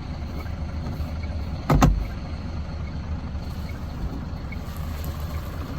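Hino 700 Series truck's diesel engine idling steadily, a low hum heard inside the cab, with a single thump about two seconds in.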